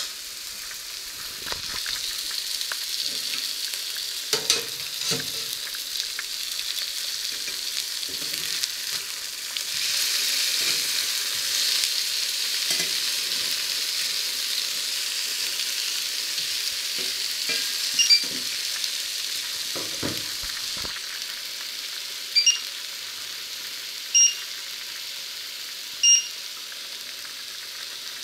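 Patties frying in a pan, sizzling steadily, with a knife scraping and knocking against the pan now and then as they are turned. In the second half, a few short beeps from the electric hob's touch controls.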